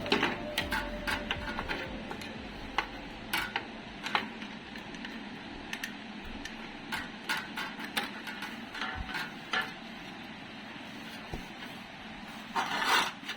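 Scattered light clicks, taps and knocks at an irregular pace, with a louder clatter near the end: small metal parts and tools being handled during ceiling fan repair work.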